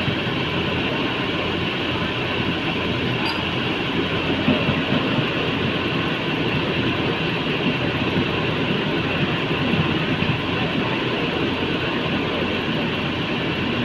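Heavy diesel machinery engine running steadily, a continuous even noise without changes in speed.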